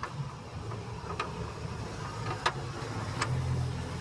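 A motor vehicle engine running with a steady low rumble that grows louder about three seconds in, with a few sharp metallic clicks from a large screw and bracket being fitted.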